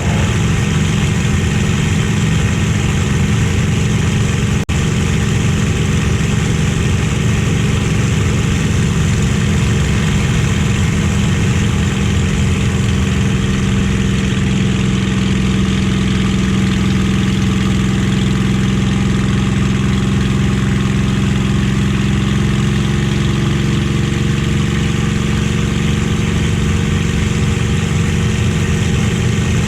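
A Merlin V12 piston aero engine of a Second World War fighter runs at steady power, a constant low drone with no change in pitch, broken only by a momentary dip just before 5 s.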